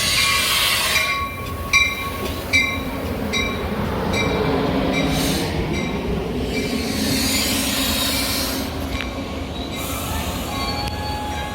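Metra commuter train rolling through a station. Steady rumble with a regular series of metallic clicks, each ringing briefly at a high pitch, a little faster than once a second, then easing off.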